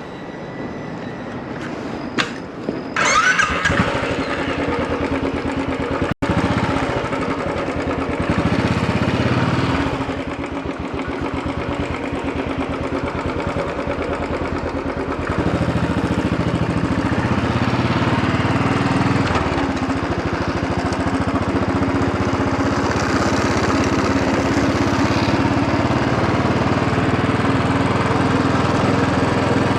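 Royal Enfield Bullet 500 EFI's air-cooled single-cylinder engine starting about three seconds in after a few clicks, then running steadily, a little louder from about halfway.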